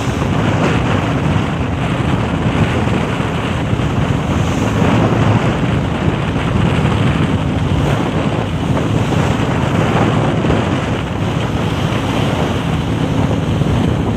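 Boat under way at sea: the steady drone of its motor mixed with water rushing past the hull and wind buffeting the microphone.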